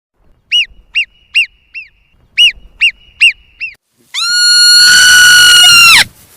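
An animal calling: seven short, high, arched chirps in quick succession, then a long, loud, shrill call held for about two seconds.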